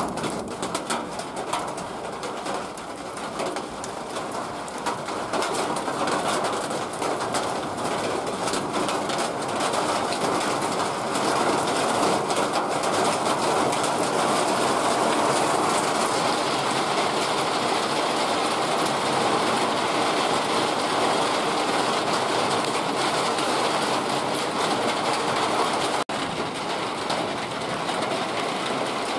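Steady heavy rain, a dense hiss with fine patter early on, growing fuller and louder about ten seconds in.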